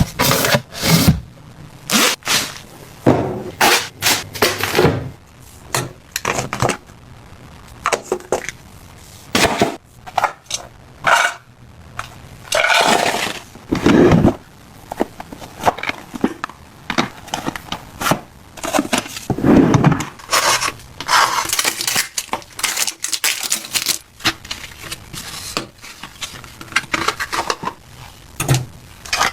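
Household items and packaging being handled and set down: a quick string of clicks, taps and knocks, with a couple of longer rustling, scraping stretches.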